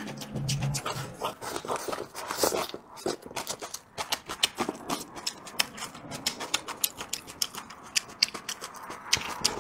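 Close-miked chewing and lip smacking of a man eating spicy braised chicken wings and duck: a rapid, irregular string of sharp wet clicks.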